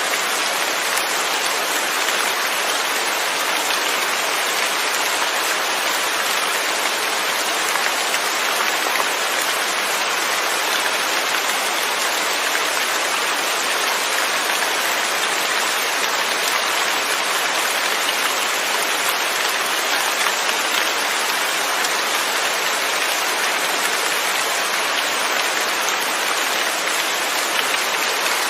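Steady rain falling, an even unbroken hiss of drops with no thunder.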